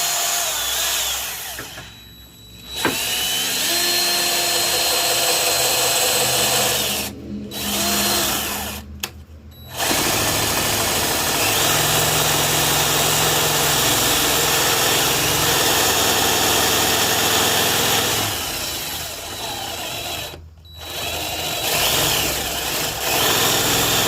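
Electric drill boring a hole with a small bit, running in long stretches with a few brief stops, the first step before working up to larger bits.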